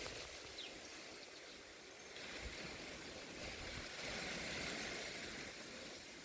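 Steady, faint hiss of rain falling on the garden, swelling a little about four seconds in.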